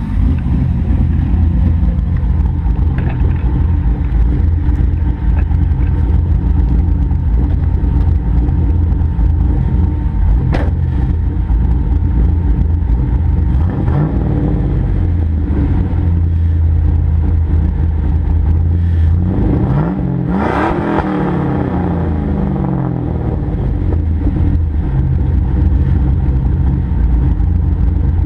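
A 5.3 LS V8 idles through stock 1998 Camaro exhaust manifolds, dual 2.5-inch pipes and a 4-inch Mufflex cat-back with a Spintech muffler and single 4-inch tip. It is blipped once about 14 seconds in and revved higher and longer about 20 seconds in, each time dropping back to idle.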